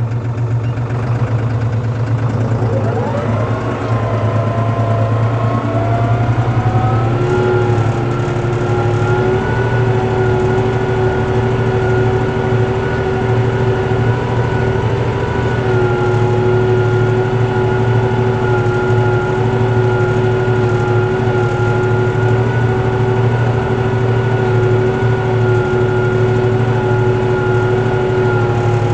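Tractor diesel engine running steadily, most likely pulling a four-furrow plough. Within the first few seconds its pitch falls and then rises back, after which it holds level.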